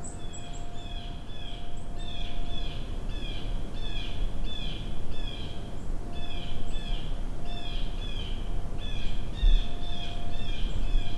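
A bird calling over and over in short, clear chirping notes that dip in pitch, about two a second, over a low rumble.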